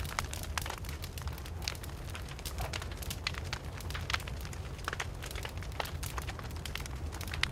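Campfire burning, with irregular sharp wood crackles and pops over a steady low rumble of the flames.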